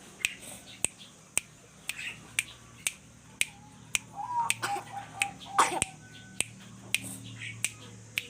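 Sharp clicks repeating evenly about twice a second, with a short wavering pitched call and a harsher burst about halfway through.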